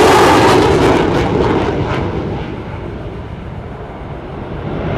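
Military jet making a high-speed pass, its engine noise loud at first, then fading and losing its high end over about three seconds as it moves away.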